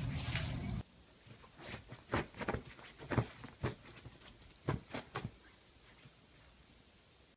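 A low rumble that cuts off under a second in, followed by a dozen or so light, irregular clicks or taps over the next few seconds.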